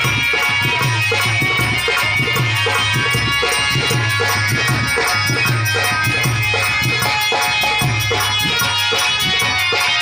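Harmonium playing a melody of held reed tones over a steady hand-drum beat.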